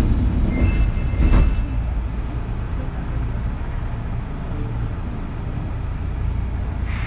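Running sound inside a Kintetsu 3200 series motor car (Mo 3205): a steady low rumble of wheels on track, with brief high whining tones from its early Mitsubishi GTO VVVF inverter about a second in.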